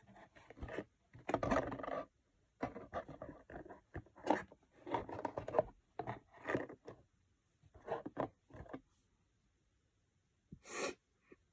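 Short, uneven bursts of scraping and rustling on cardboard as a hand-made cardboard slope is handled and tested, then a pause and one brief hiss near the end. The slope is not slippery enough for the coin to slide down well.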